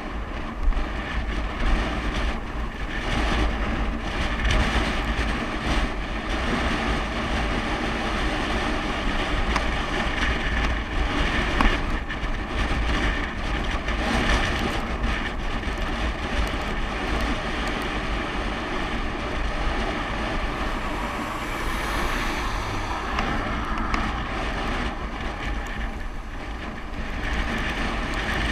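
Wind buffeting the microphone of a bicycle coasting downhill at speed: a steady low rumble, with frequent small rattles and clicks from the bike running over the road.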